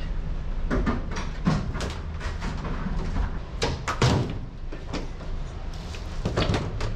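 Irregular knocks and bangs of workshop work on a rail car, the loudest about four seconds in, over a steady low hum.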